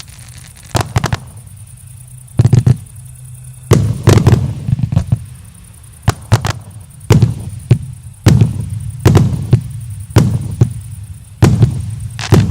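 Fan-shaped multi-shot fireworks cake ('Generalsky' battery) firing its shells: a string of sharp bangs at an uneven pace, about one or two a second, some in quick pairs, each followed by a low rumble.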